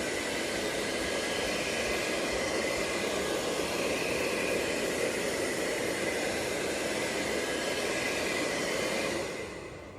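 ILIFE V5s Max robot vacuum running, a steady motor whir with a faint high tone over the hiss of suction and brushes working carpet. The sound falls away about nine seconds in.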